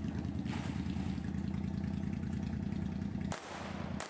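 Motorcycle engine idling with an even, pulsing beat. Two sharp clicks near the end briefly cut through it.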